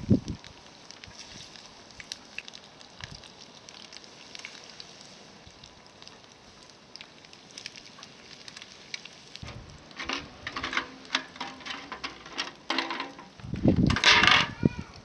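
Wood campfire crackling, with oil faintly sizzling as shrimp and squid rings deep-fry. From about two-thirds of the way through come louder irregular clicks and clatter, the loudest a thump with a crackling burst near the end.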